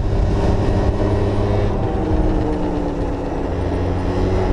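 Yamaha Zuma 50cc scooter engine running while it is ridden over dirt, with its note easing off slightly about three seconds in.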